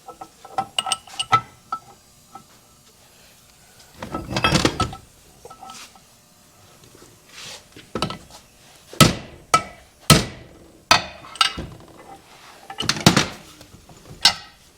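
Hammer striking a steel punch to drive out a bearing or seal from a tractor PTO housing: a few light metallic clinks at the start, a short rattle midway, then a run of sharp, ringing metal-on-metal blows in the second half.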